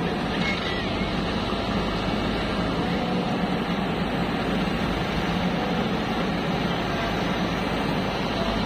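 Steady running noise of a motor vehicle, an unbroken drone with a constant low hum.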